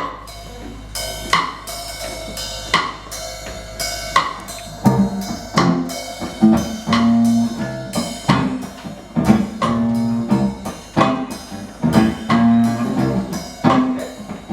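Band playing the instrumental opening of a song: drum kit and guitar, with bass guitar coming in about five seconds in.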